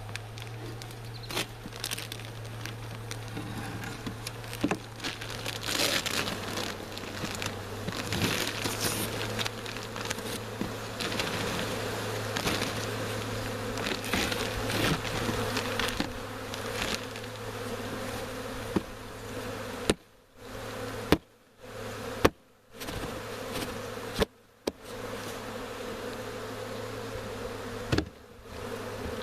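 A large honeybee swarm buzzing as a steady, dense hum, with crinkling and rustling of the capture bag. The sound cuts out briefly several times in the last third.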